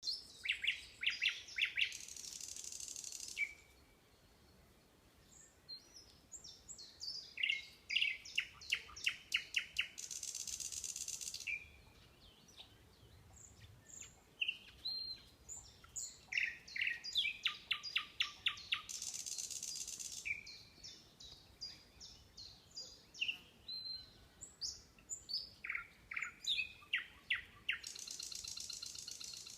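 A songbird singing in repeated phrases, each a quick series of loud whistled notes followed by a harsh buzzing trill that lasts over a second. Four such phrases come several seconds apart, with softer chirps in between.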